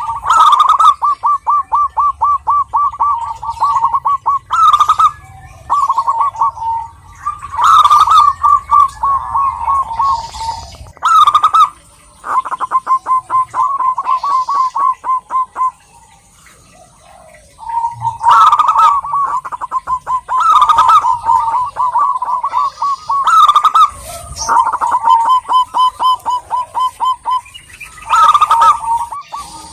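Zebra doves (perkutut) singing: phrase after phrase of quick staccato cooing notes run together into rapid trills, each phrase opening with a higher note. There is a short lull a little past halfway, and a faint steady high hiss runs underneath.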